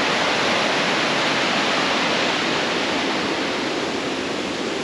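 Small mountain waterfall: a steady, even rush of falling water.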